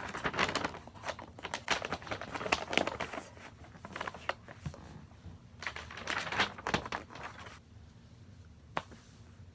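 Irregular crinkling and rustling with quick clicks, as of something being handled close to the microphone, in busy spells at the start and again about six seconds in, then one sharp click near the end.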